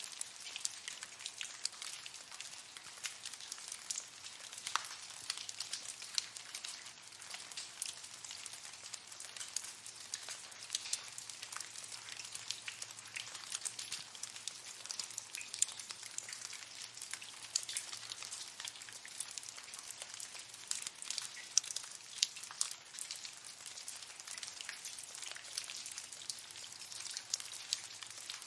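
Water dripping in a cave: many drops falling irregularly, several a second, over a steady patter.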